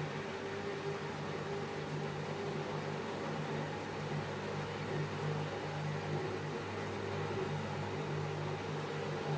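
Bosch front-load washing machine running with a steady motor hum and drum noise during its spin program.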